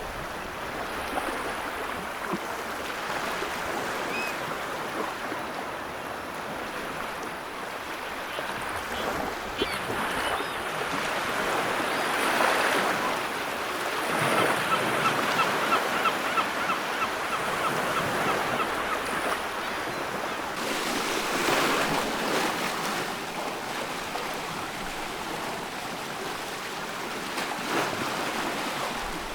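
Wood fire crackling and hissing, with slow swells of noise and scattered sharp pops, including a quick run of pops about halfway through.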